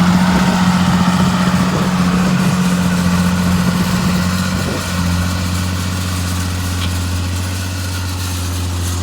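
John Deere 8200 tractor's six-cylinder diesel engine running steadily; a little under halfway through its note changes and it settles slightly quieter.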